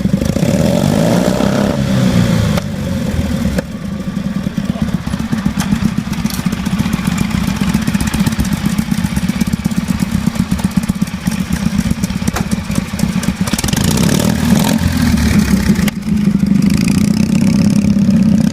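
Hot-rodded antique tractor engines running loud with a fast, pulsing beat, revving up and down briefly near the start. The sound changes abruptly a few times, as from cut-together clips.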